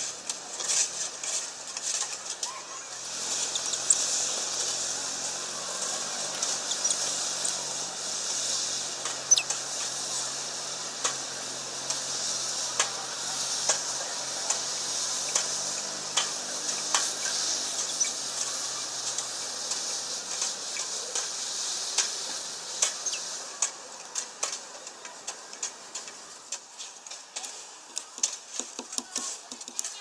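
A great tit moving and pecking on a feeder: a run of sharp taps and clicks over a steady hiss that fades about 23 seconds in.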